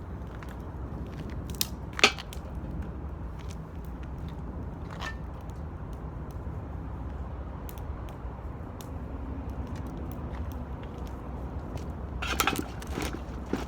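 Wood fire crackling in an 18-litre square metal can, with scattered small pops, a sharp knock about two seconds in and a brief cluster of louder crackles near the end, over a steady low rumble.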